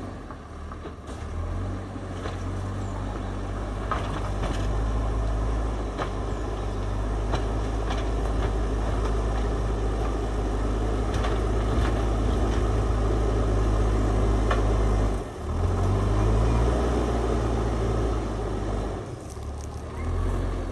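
JCB backhoe loader's diesel engine running steadily under load, with scattered light clanks. The engine note dips briefly about two-thirds of the way through and again near the end.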